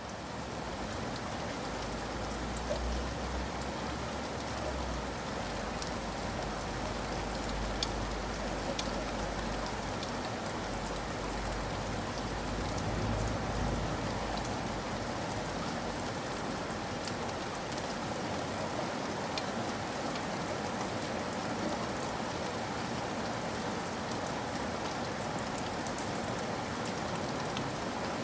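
Steady rain falling on a surface, an even hiss with scattered drops ticking through it. A low rumble sits under the rain for about the first half, then fades.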